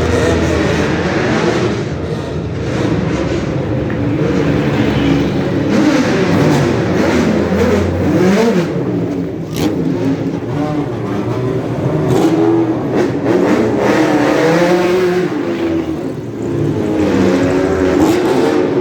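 Several sports car engines revving and accelerating as the cars drive past, their pitch rising and falling again and again.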